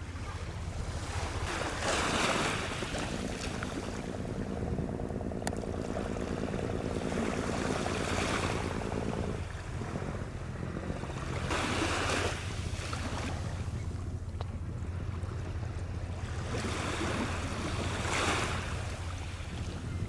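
Sea waves surging in every five seconds or so over a steady low rumble of wind on the microphone. From about three seconds in until about nine and a half seconds, a motor-like drone with several steady tones runs underneath.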